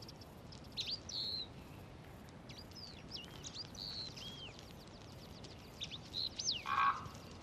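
Small birds chirping: short high whistled notes that bend up and down, a few at a time with pauses between, over a faint background hiss, with two short buzzier notes near the end.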